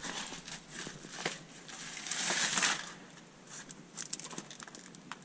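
Scuffing and crunching of feet and clothing on loose cave stone as someone moves towards a descent, with a longer scraping rush about two seconds in and a run of small clicks and knocks near the end.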